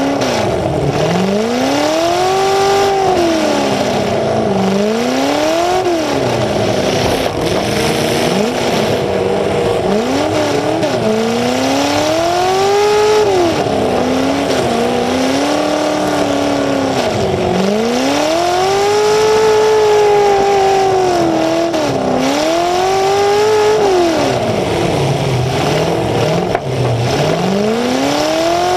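Demolition derby car's engine running through open exhaust pipes that stick straight up through the hood, revving up and dropping back over and over in long swells as the car drives and reverses, with a few knocks of collisions.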